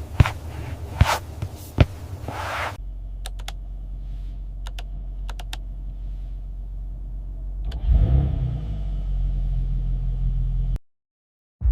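A few sharp clicks and knocks, then a steady low engine rumble. About eight seconds in an engine starts up louder and runs steadily, then cuts off suddenly near the end.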